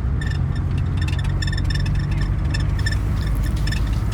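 Car driving, heard from inside: a steady low engine and road rumble with irregular light ticks and rattles over it.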